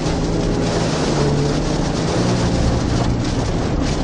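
Loud, steady rushing noise of storm wind on the microphone, with a low engine hum underneath.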